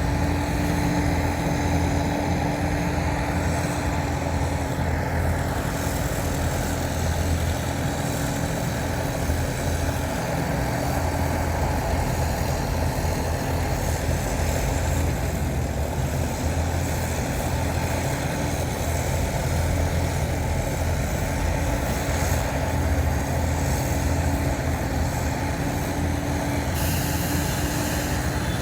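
Heavy diesel earthmoving machinery running steadily under load, a deep engine hum with a constant droning tone over it.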